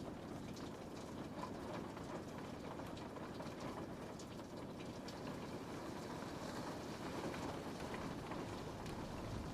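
Steady rain pattering on a window pane, with many small, scattered drop ticks over an even hiss.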